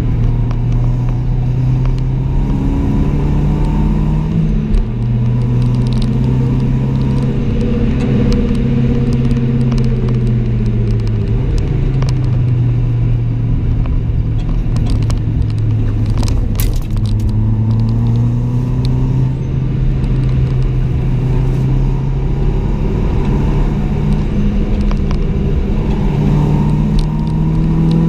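Mitsubishi Colt CZT's turbocharged 1.5-litre four-cylinder engine heard from inside the cabin while it is driven hard on a race circuit. The engine note climbs and then drops several times as the car accelerates, shifts and slows for corners.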